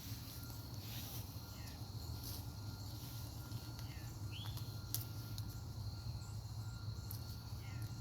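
A bird giving short single chirps every couple of seconds over a steady high insect drone. There is one sharp click about five seconds in.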